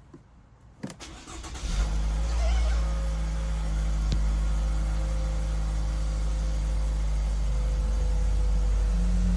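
Toyota Esquire (80-series) engine being started: a click, a brief crank, then the engine catches about two seconds in and settles into a steady idle.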